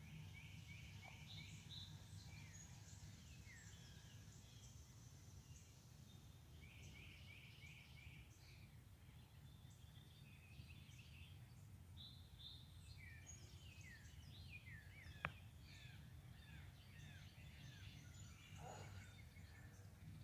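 Faint songbirds chirping and calling, with quick series of repeated chirps and short downward-sliding calls, over a steady low rumble. A single sharp click sounds about fifteen seconds in.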